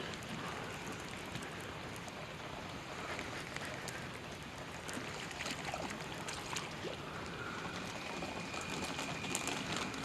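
Rain falling steadily, an even hiss of patter with scattered light ticks of drops.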